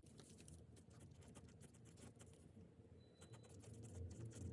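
Faint pencil writing on paper, with soft scratches and ticks over a low hum.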